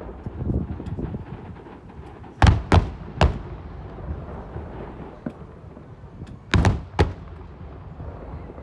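Aerial fireworks shells bursting: a few sharp bangs about two and a half seconds in, and two more about six and a half seconds in, over a continuous low rumble of distant bursts.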